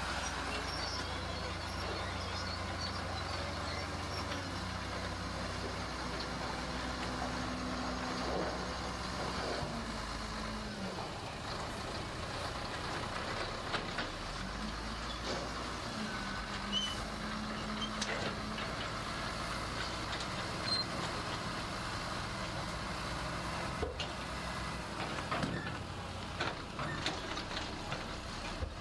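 Heavy diesel earthmoving machinery running, its engine note shifting up and down a few times, with scattered sharp knocks in the second half.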